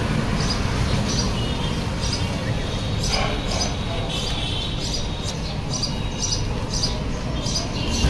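A small bird chirping again and again, short high chirps about once a second, over a steady low background rumble.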